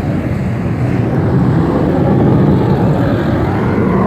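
Steady low engine rumble, even in level throughout.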